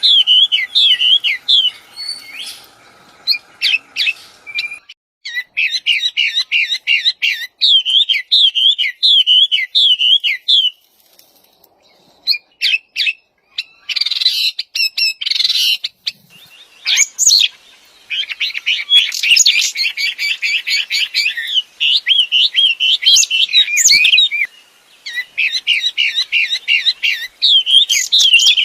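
A wambi songbird singing loud, fast, wavering trills over and over, with a few short pauses between runs of song. A faint steady hum runs under the song for the first few seconds.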